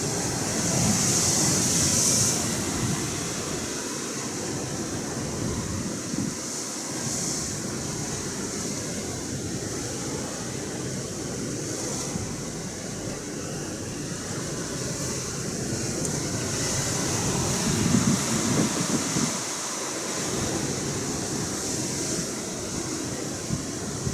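Atlantic Ocean surf washing on the shore, a steady rushing hiss that swells louder near the start and again about two-thirds of the way through.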